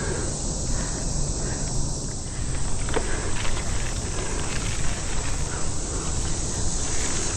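Mountain bike rolling along a dirt singletrack: a low steady rumble with a few light clicks and rattles, over a steady high insect hiss.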